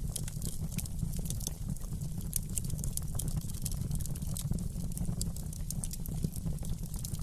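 Wood fire crackling in a fireplace: a dense, irregular run of small sharp pops and snaps over a steady low rumble.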